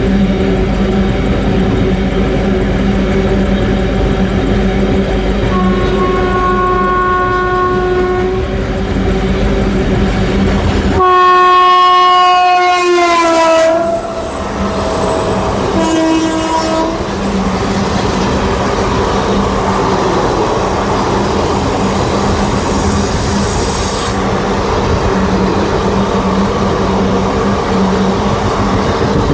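Indian Railways train running past with its wheels clattering on the rails, while the locomotive horn sounds three times. The second blast is the longest and loudest, and it drops in pitch as it ends; the third is a short blast.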